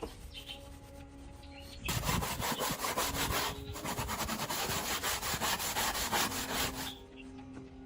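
Rapid back-and-forth rubbing strokes of a hand tool scraping or abrading a part. They start about two seconds in, break briefly, and stop about a second before the end.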